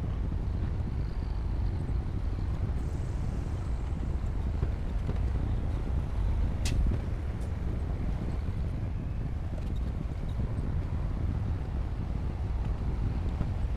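Bulldozer's diesel engine running steadily with a low rumble, with one sharp click or clank about halfway through.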